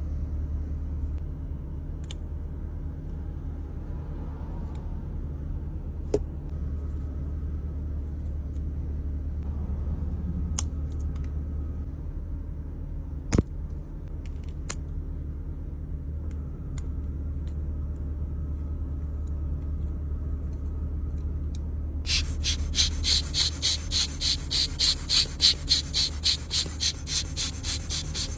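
Steady low rumble of a car, with a couple of sharp clicks. About 22 seconds in, a loud rhythmic scratchy noise starts, pulsing about three to four times a second.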